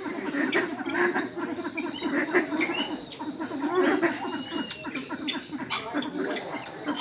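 Many captive birds calling at once: short chirps, squeaks and a few high whistles over a steady low chatter.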